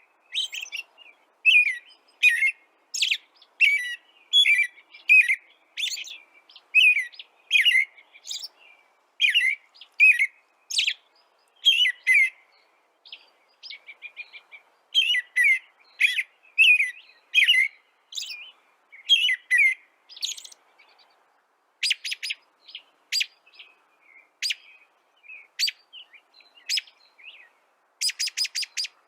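A bird chirping in a steady series of short, sharp calls, one or two a second, with a quick rapid run of chirps near the end.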